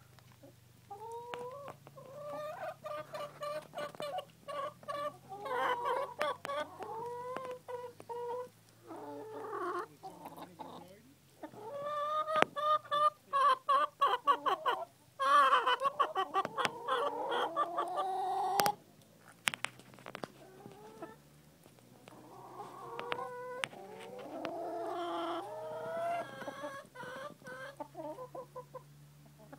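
Chickens clucking and calling over and over, some calls drawn out, with many short sharp clicks among them. The calls are loudest from about the middle of the stretch.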